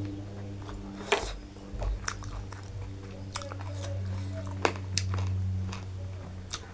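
Close-up mukbang chewing and eating sounds, with a few sharp clicks, over a steady low hum.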